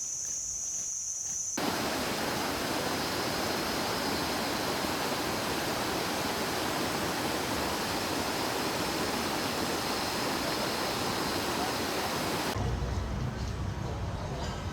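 A steady high-pitched insect drone for about the first second and a half. Then an abrupt cut to the even rush of flowing water from a jungle stream or small waterfall, which gives way to a lower rumbling noise near the end.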